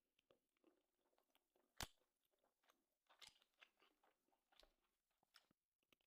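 A person chewing food with mouth close to the microphone: faint, irregular wet clicks and small crunches, with one sharper click about two seconds in.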